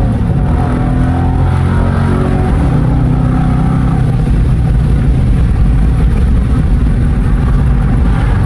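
The 5.7-litre Hemi V8 of a Dodge R/T, running loud and deep under steady throttle while driving. It breathes through an exhaust with the resonator and mid mufflers cut out and only the catalytic converters left.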